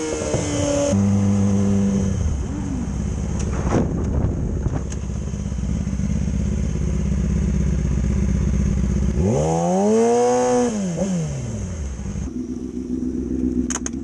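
Yamaha R6 sport bike's inline-four engine under way: a high-revving pull, then a steady lower drone while cruising. Past the middle it revs up and falls back over about two seconds, and near the end it settles into a steady idle.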